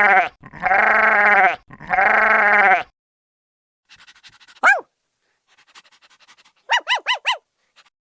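Sheep bleating in three long, wavering calls one after another, the first already under way. Then a single short high chirp and, near the end, a quick run of four high chirps.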